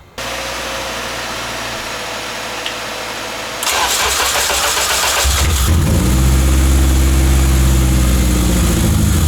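Acura TSX K24A2 four-cylinder engine being started: a steady hum at first, then the starter cranking about three and a half seconds in. The engine catches a couple of seconds later and runs loud at a fast, uneven idle, its pitch rising and then easing back.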